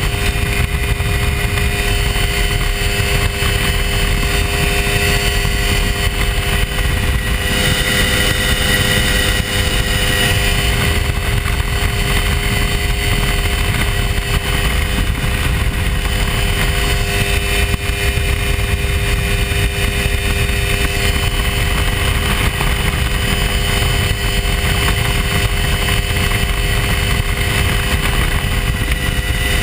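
Hy-Tek Hurricane ultralight's engine and propeller running steadily in flight, a constant drone with no change in pitch.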